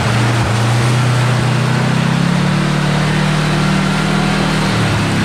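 Kawasaki Teryx KRX4 1000 side-by-side's parallel-twin engine running steadily as it drives along a trail. The pitch rises a little about two seconds in and eases back near the end.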